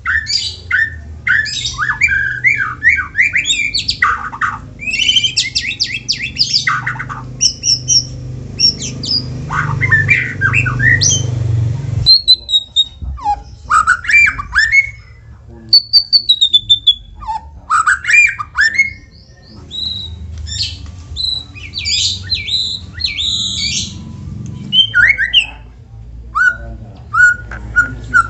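White-rumped shama (murai batu) singing a varied song of rapid repeated notes, harsh rasping calls and clear whistled phrases. The song is used as bait to provoke other shamas into singing.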